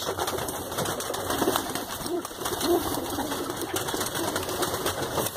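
Domestic pigeons cooing softly, with scattered faint clicks.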